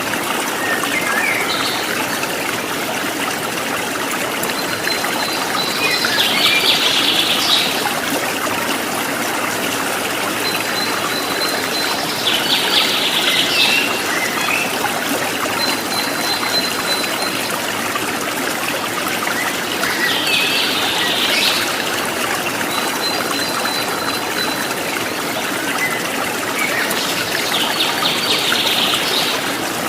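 Steady running water of a stream, with a songbird repeating the same phrase four times: a thin held high whistle leading into a quick trill, about every seven seconds.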